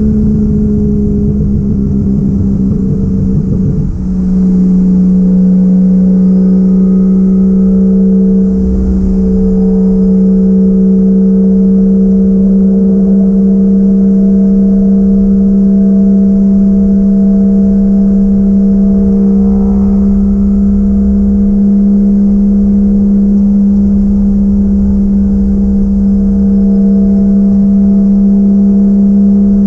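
Toyota 1JZ-GTE VVTi turbocharged inline-six in a Nissan 240SX S13 under way. Its note shifts for the first few seconds and dips briefly about four seconds in, then holds one steady drone at constant engine speed.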